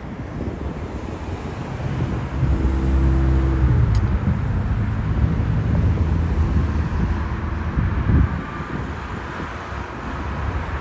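Low engine rumble of a vehicle passing close by. It builds about two seconds in and its tone drops slightly as it goes past, then fades after about eight seconds.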